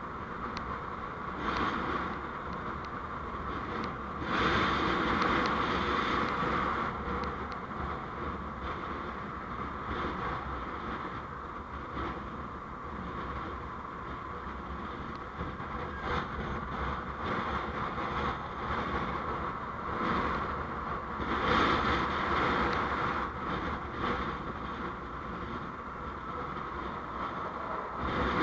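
Steady road noise of a vehicle on the move, engine and tyre noise mixed, swelling louder for a few seconds twice, once about four seconds in and again about three-quarters of the way through.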